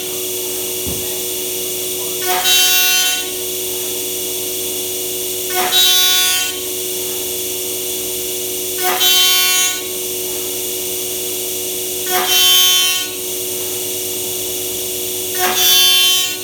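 MAKA 5-axis CNC machining centre with its spindle running at a steady whine. About every three seconds the cutter bites into the plastic moulding for about a second, in a louder, harsher burst that repeats five times.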